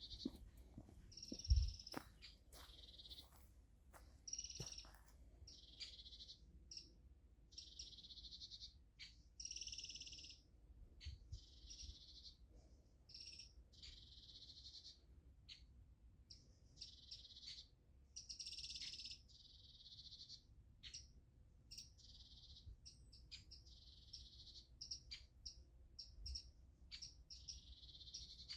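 A bird singing the same high trilled phrase over and over, each about a second long with short pauses between. A faint low rumble sits under it, and there is a single soft thump about a second and a half in.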